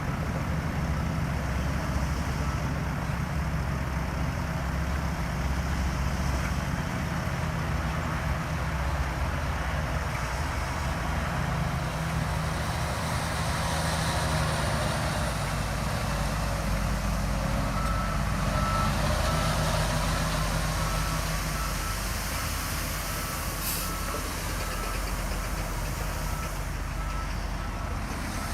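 Heavy diesel earthmover engine running under load while a reversing alarm sounds a series of short, evenly spaced high beeps. The beeps run for the first several seconds, stop, then start again about two-thirds of the way through.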